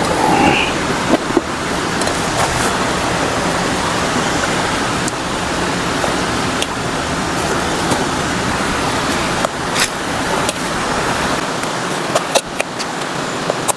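Steady, loud rush of falling or fast-running water, with a few sharp clicks of handling or knocks now and then; the deepest part of the rush falls away near the end.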